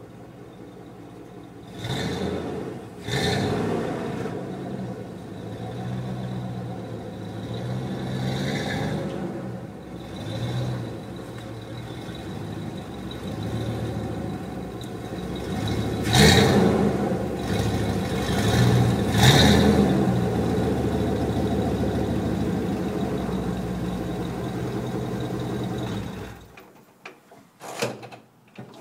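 1996 Dodge Dakota's 5.2-litre V8 through Flowmaster 50 mufflers with no catalytic converter, straight pipe to the muffler. It idles, is blipped up sharply about two and three seconds in and again around sixteen and nineteen seconds, and rises and falls in between. Its sound stops abruptly near the end.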